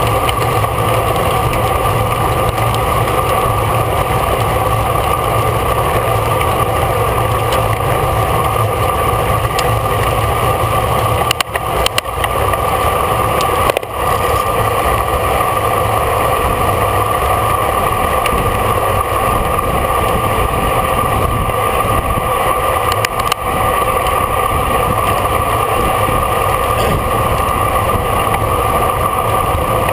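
Steady rushing wind and road noise on a camera riding on a racing bicycle at speed, with a few brief dropouts.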